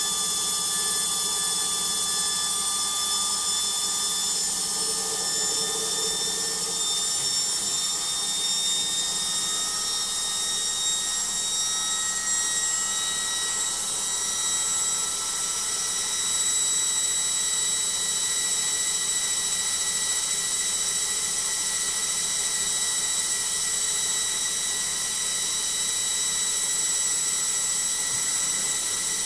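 Logik washing machine in its final spin: a steady high motor whine over the rushing of the drum, creeping up in pitch through the first half and then holding steady at top spin speed.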